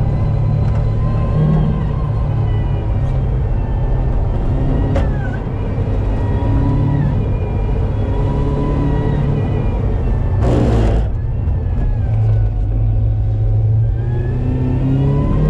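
Supercharged Mazda MX-5 engine heard from inside the cabin while the car is driven hard, its pitch rising and dropping repeatedly as it accelerates and changes gear. Road and tyre noise runs underneath, and a short burst of hiss comes about two-thirds of the way in.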